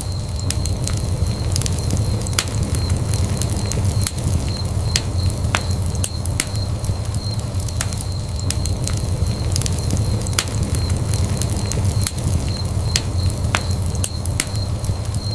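Wood fire burning in a fireplace, a steady low rumble of flame with frequent sharp crackles and pops of burning logs.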